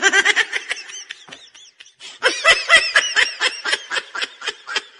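High-pitched laughing: a fast string of short, pitched, giggling pulses, with a short break about two seconds in.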